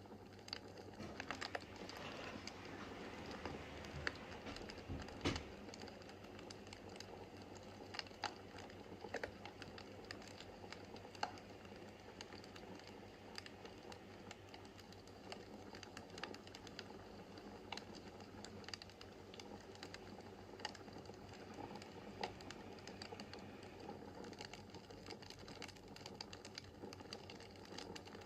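Wood fire crackling in a fireplace: irregular sharp snaps and ticks, several a second, over a soft steady rush of flame, with a couple of louder pops about four to five seconds in.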